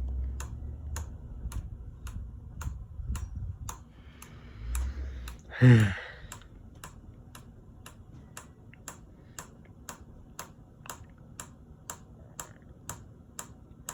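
Hunter Summer Breeze ceiling fan running on medium with a low hum and a regular click about three times a second: something hitting something as it turns, which the owner suspects could be a blade.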